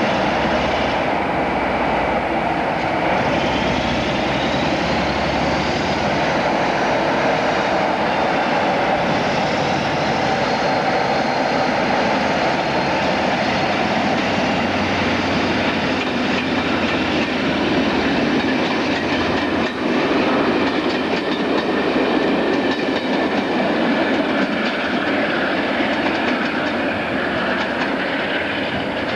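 Train running on the line, loud and steady, with a whine that rises in pitch over the first few seconds.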